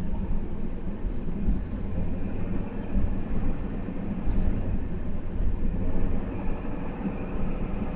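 Ambulance-conversion camper truck driving along, with a steady low rumble of engine and road noise.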